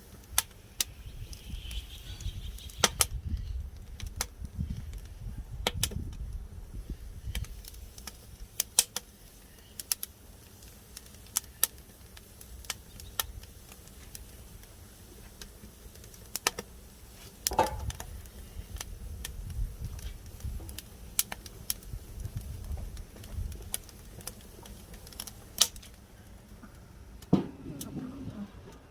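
Wood fire crackling, with sharp, irregular pops over a low rumble.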